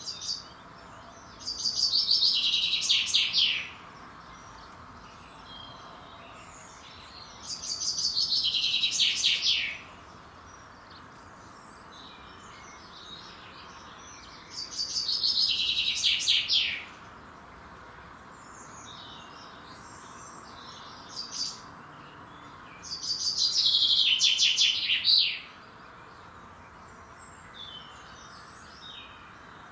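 Songbird singing the same short, rapid, falling phrase four times, about every seven seconds, with fainter calls of other birds between the phrases.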